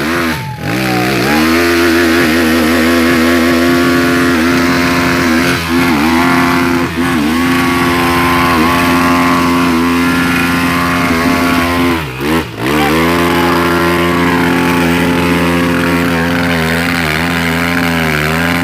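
Off-road motorcycle engine running under steady throttle, with the revs dropping sharply and picking back up about half a second in and again about twelve seconds in.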